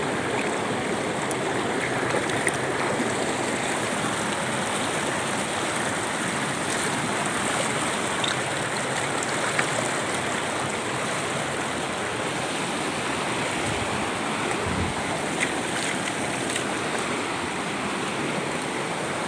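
Steady rushing of flowing water, an even noise that holds at one level throughout.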